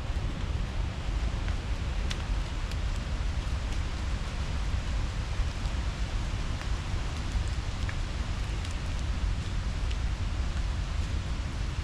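Steady outdoor ambience: a low, fluctuating rumble under an even hiss, with a few faint short ticks scattered through.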